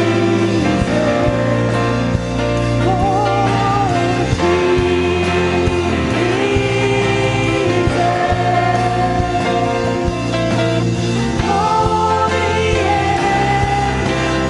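Worship song: voices singing sustained melody lines over a band with guitar and steady bass.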